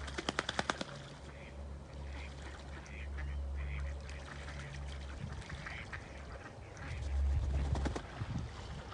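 Ducks quacking: a quick run of quacks at the start and another louder cluster near the end, with scattered calls between, over a steady low rumble.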